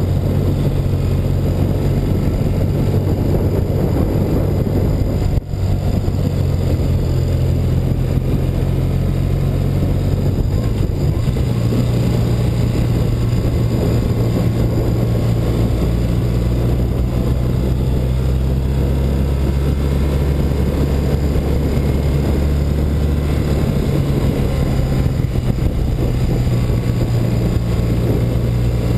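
1984 BMW R100RS air-cooled flat-twin engine running steadily under way, over a rush of wind and road noise. There is a brief dip about five seconds in, and the engine note changes pitch around eleven seconds and again past twenty seconds.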